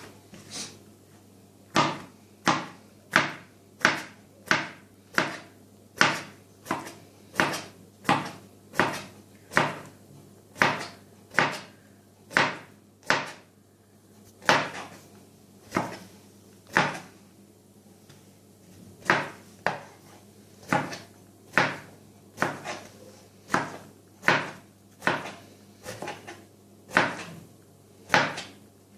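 Knife chopping cucumber into small cubes on a cutting board: a steady run of sharp knocks about one and a half a second, pausing briefly past the middle before going on.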